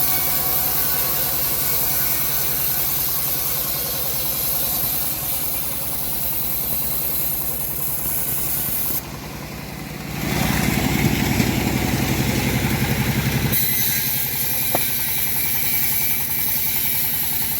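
Engine of a homemade bandsaw mill running steadily with a fast, even beat, louder for about three seconds past the middle.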